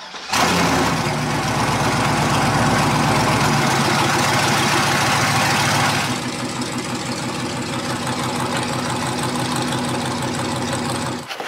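Turbocharged LS V8 engine in a swapped project car catching abruptly and running loud, then dropping to a quieter, steady idle about six seconds in.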